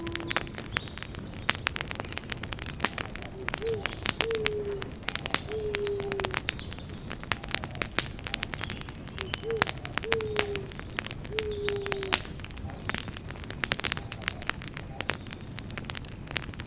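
Campfire crackling with frequent sharp pops over a low rumble of burning. A low bird call sounds in two runs of three short, slightly falling notes, about four seconds in and again about ten seconds in.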